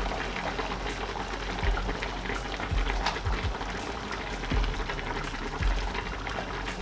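Cream, wine and Parmesan sauce simmering in a pan with a steady bubbling crackle as it thickens, with a few soft low bumps.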